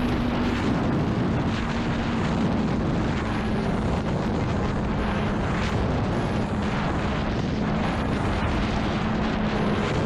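Honda CBR600RR's inline-four engine running steadily at speed under heavy wind rush over the microphone.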